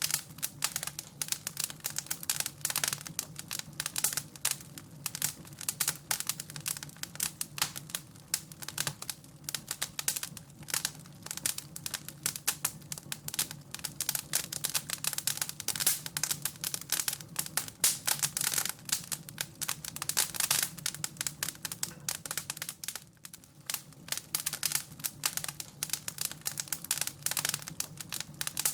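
Wood fire crackling, with dense, irregular snaps and pops over a faint steady low hum.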